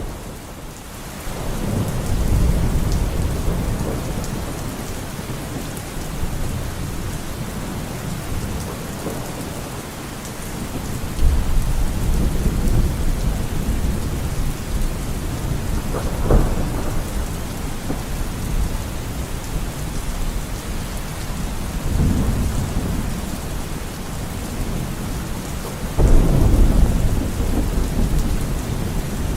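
Thunderstorm: steady rain with thunder rumbling low several times, a sharper crack about halfway through and a sudden loud roll near the end.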